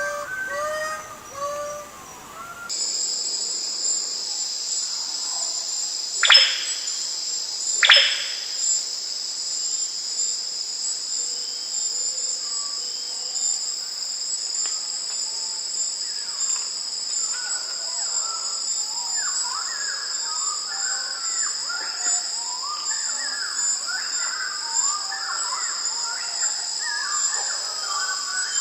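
Birds calling over a steady high insect drone: two loud down-slurred whistles about a second and a half apart, then a run of quick chattering bird notes in the last third.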